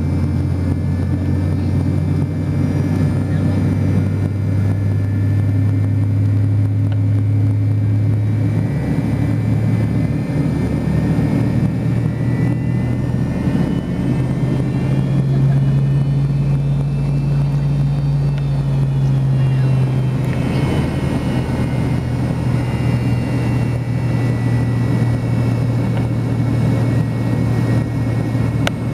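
McDonnell Douglas MD-88's rear-mounted JT8D turbofan engines running, heard from inside the rear cabin: a loud steady drone. Its pitch steps up about halfway through and drops back a few seconds later, with a faint whine rising and falling in between.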